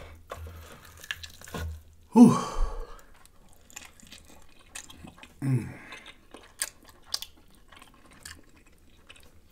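Close-miked chewing and lip-smacking on fried chicken, with scattered small wet clicks. Two short falling vocal hums break in, the louder about two seconds in and another about five and a half seconds in.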